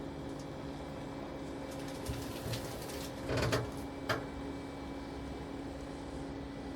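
Steady machine hum, as from a backhoe loader's engine at idle, under a few knocks and clatters from handling fittings in the cab. The loudest clatter comes about halfway through, followed by one sharp knock.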